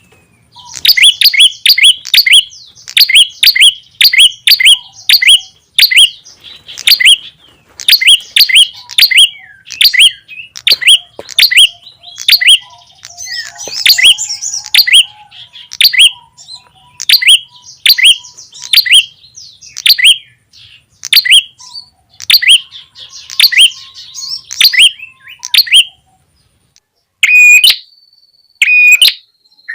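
Prenjak lure call: a rapid series of sharp, loud chirps, about two a second, repeated over and over. Near the end there is a brief pause, then a few flatter, lower-pitched chirps.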